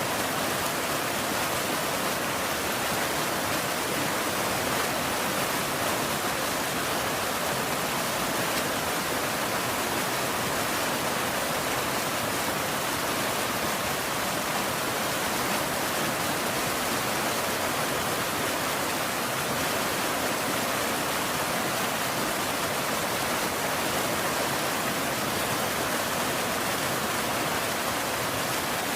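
Steady rain, an even hiss that holds the same level throughout, with no thunder.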